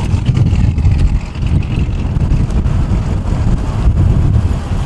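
Cars rolling slowly past with a deep, steady engine rumble, with wind buffeting the microphone.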